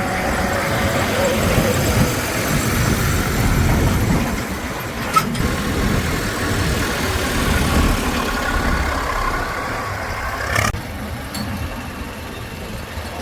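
Diesel engine of heavy farm or construction machinery running steadily, with a sharp click about five seconds in and an abrupt drop in the higher-pitched sound near the end.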